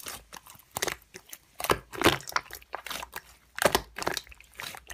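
Slime being squished and pressed by hand, making an uneven run of wet clicks and crackles several times a second.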